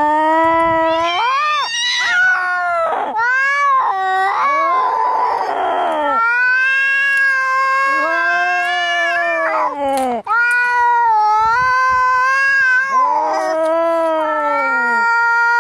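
Domestic cats caterwauling in a fight: long, drawn-out yowls that rise and fall in pitch, one after another, with a harsh hiss about five seconds in.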